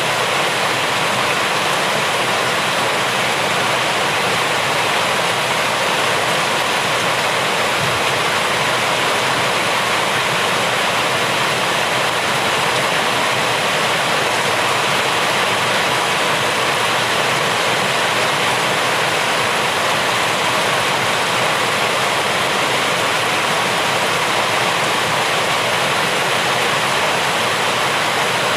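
Steady heavy rain: a dense, even hiss of water with no single drops or gaps standing out.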